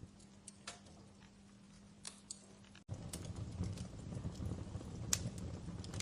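Fireplace crackling, with scattered sharp pops over a low steady bed. About three seconds in it cuts out for an instant and comes back louder and denser.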